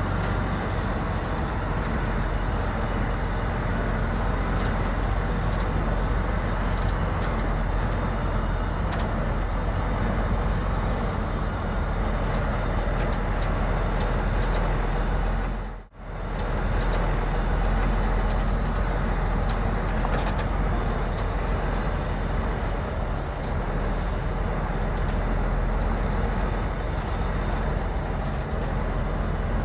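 Diesel engine of heavy construction machinery running steadily with a low rumble; the sound drops out for a moment about halfway through.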